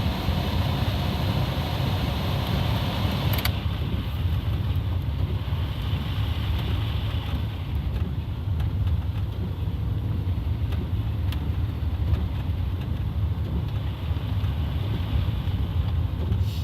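Steady engine and tyre noise heard inside a moving car's cabin on snow-covered roads. A single click comes about three and a half seconds in, after which the higher hiss drops away.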